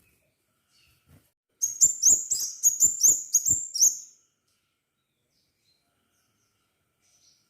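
Crimson sunbird (sepah raja) giving a fast run of about nine sharp, high chirps over two and a half seconds, then falling silent.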